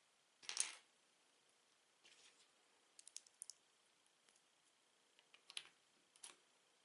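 Plastic Lego bricks being handled and pressed together: scattered small sharp clicks, with a short scraping rattle about half a second in as the loudest sound.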